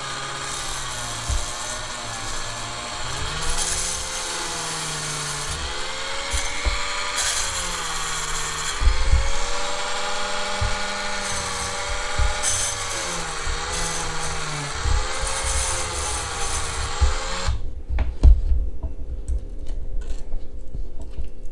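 Small power tool running fast, its whine dipping and recovering as the load changes while it spins a toy car wheel against 8000-grit micro-mesh polishing pad. It stops abruptly about 17 seconds in, and a few low knocks follow.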